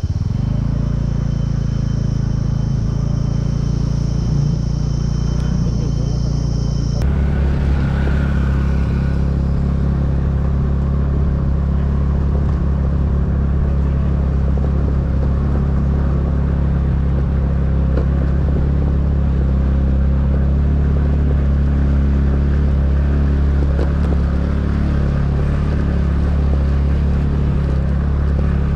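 Motorcycle engine running steadily while riding, with road and wind noise. Its note shifts abruptly about seven seconds in, then holds steady again.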